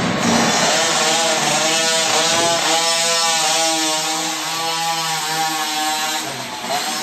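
Small minibike engine running and revving, its pitch rising and falling.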